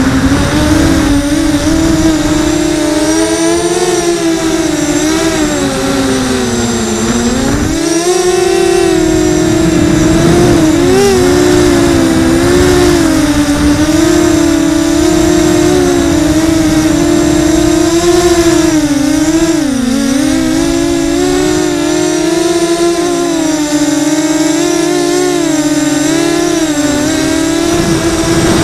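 Blackout 330 quadcopter's brushless motors and propellers whining in flight, the pitch wavering up and down with throttle changes. It dips and climbs again about seven seconds in and again about twenty seconds in.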